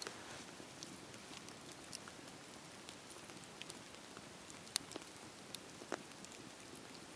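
Wood fire in a fireplace crackling softly over a steady hiss, with scattered sharp pops and two louder ones past the middle.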